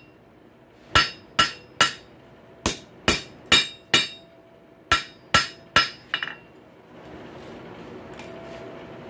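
Blacksmith's hammer striking the steel of a rail-spike handle on the anvil, each blow ringing. The blows come in quick runs of three or four, about two and a half a second, with short pauses between runs. A faint steady rushing noise follows near the end.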